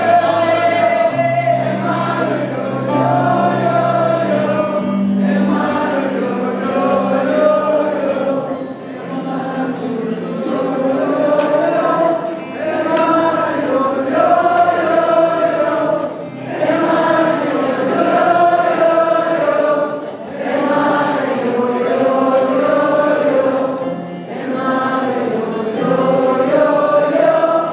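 Live band music with wordless, choir-like singing: several voices holding and bending long notes over sustained low bass notes.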